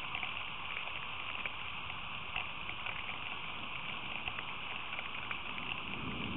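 Steady rain on a feeder camera's microphone: an even hiss of falling rain with many small, irregular drop ticks.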